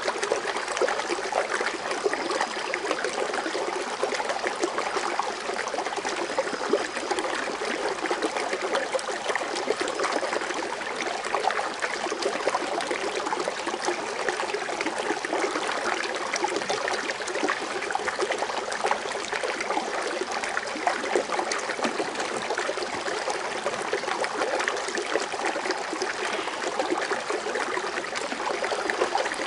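Water fountain splashing and trickling steadily: a dense, even patter of falling water with fine splashes.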